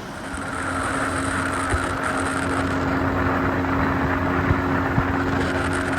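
Boat's engine running steadily, louder from about half a second in, with a hiss of water or wind over it and a few sharp knocks.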